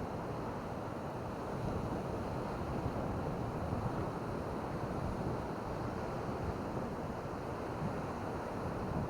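Steady wash of surf on a beach mixed with wind, which rumbles on the microphone.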